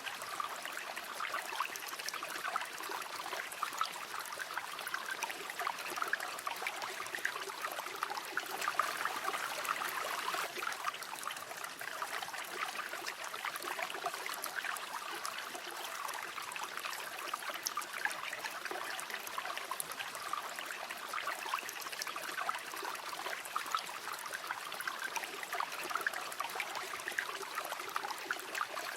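River water flowing steadily over stones, a continuous babbling rush with fine trickling and splashing detail.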